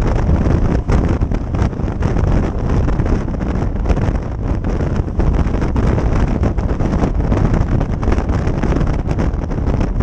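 Wind buffeting the microphone of a moving motorcycle, a loud, steady, fluttering rush with the bike's riding noise underneath.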